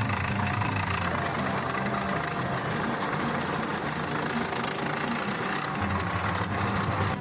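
An engine running steadily, with a constant loud hiss over a low hum.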